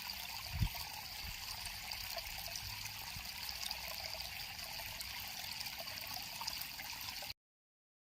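River water flowing and trickling steadily, with a single low thump under a second in. The sound cuts off abruptly about a second before the end.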